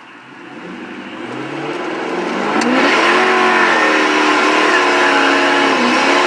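Car engine accelerating: its pitch and loudness climb over the first three seconds, then it holds at speed with a brief dip near the end.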